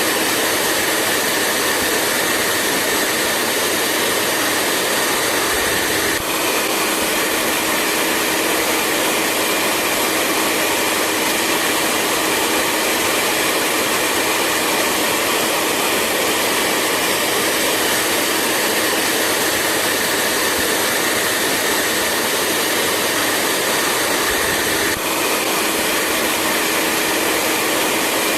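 Hair dryer running continuously: a steady blowing whoosh with a low hum and a high whine. The whine shifts slightly at a brief break about six seconds in and again near the end.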